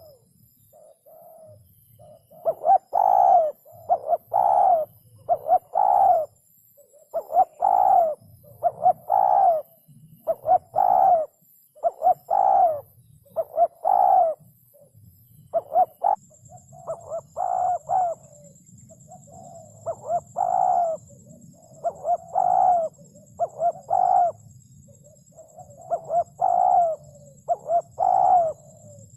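Spotted dove cooing: low coo notes repeated in short phrases of two or three, with brief pauses between phrases, going on throughout.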